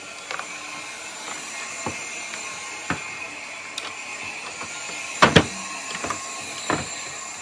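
Hard plastic parts of a Hoover upright vacuum being handled and fitted back together: scattered clicks and knocks, the loudest a sharp double knock about five seconds in, over a steady faint hiss.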